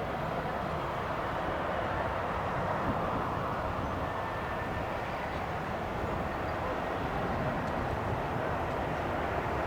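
Steady rumble of jet airliner engines at an airport, an even, unbroken noise that neither rises nor falls.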